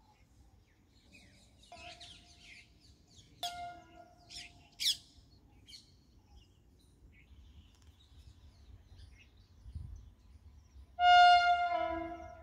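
Birds chirping in short bursts. Near the end comes a loud, reedy, two-part hoot lasting about a second and a half, which steps in pitch partway through.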